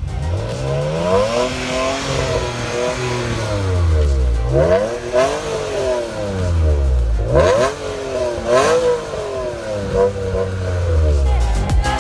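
Car engine revving, its pitch climbing and falling several times, with quick sharp climbs after each low point.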